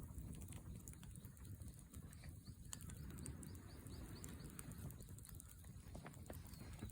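Wood fire crackling faintly, with irregular small pops and ticks over a low rumble.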